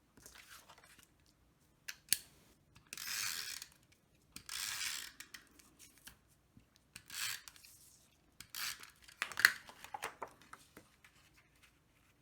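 Several short rasping swipes, each about half a second long, with small clicks and taps in between: paper cardstock and craft tools being handled and rubbed against each other.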